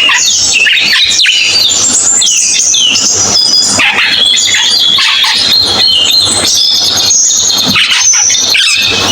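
Cucak keling songbird singing a loud, continuous run of fast, varied chattering and whistled notes with no pauses.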